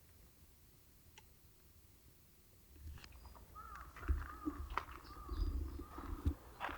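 A bird calling outdoors in a quick series of short, arching notes that starts about halfway in, over scattered low thumps and clicks.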